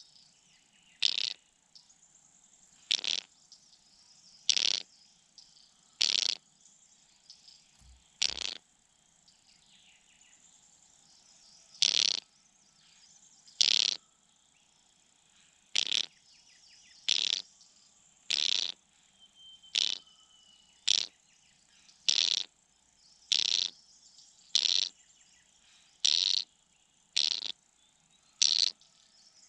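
Night-time insect sounds: a faint steady high trill under loud, short rasping calls repeated about every one to two seconds.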